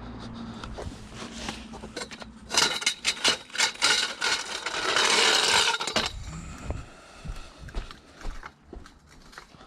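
A run of knocks and clatter, with a scrape about five seconds in, like hard objects being handled and dragged.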